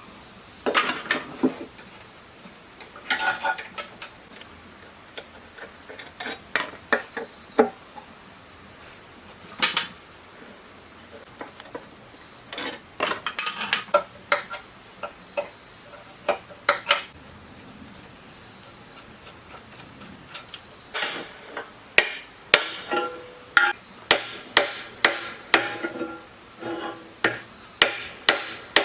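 Hammer blows: scattered, irregular strikes at first, then a steady run of blows about two a second in the last several seconds. A steady high insect drone runs underneath.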